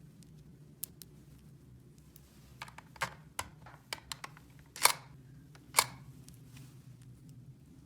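Small hard plastic toy pieces handled and set down: a scatter of light clicks and taps, with two sharper knocks about five and six seconds in.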